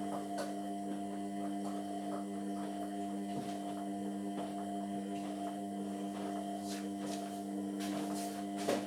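Indesit MyTime washing machine running with a steady hum during a cotton 60 wash, with a few sharp clicks near the end.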